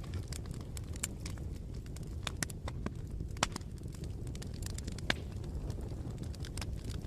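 Bonfire burning: a steady low rumble with irregular sharp crackles and pops throughout, the loudest pops about three and a half and five seconds in.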